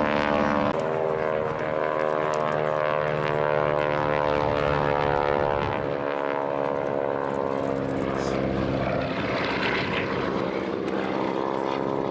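Propeller-driven airplane flying past, its engine note a steady drone that sinks slowly in pitch.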